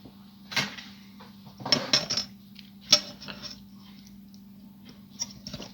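Small hard items clattering and clinking as they are handled and set aside on a work surface: a knock about half a second in, a quick cluster of clinks around two seconds, a sharp click near three seconds, then a few lighter taps near the end.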